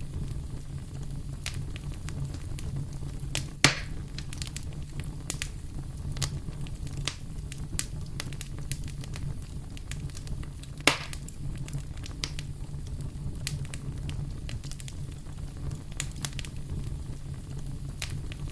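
Wood fire burning in a fireplace: steady low rumble of the flames with irregular crackles and pops. Two louder pops stand out, about four seconds in and again about eleven seconds in.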